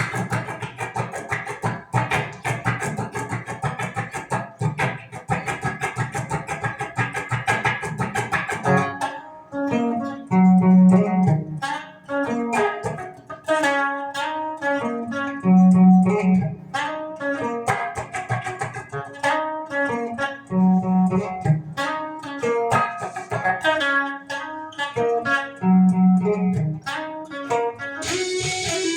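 Guitar playing: about nine seconds of fast, rhythmic strumming, then slower picked notes over a low note that comes back about every five seconds. A hiss joins in near the end.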